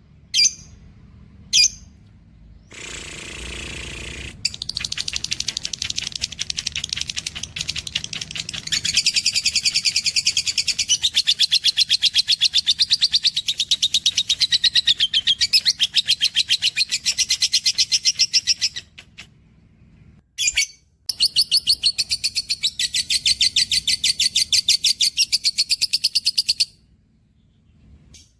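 Pet cage birds singing: long, rapid trilled phrases of fast repeated high notes, broken by a short pause past the middle with a single brief chirp.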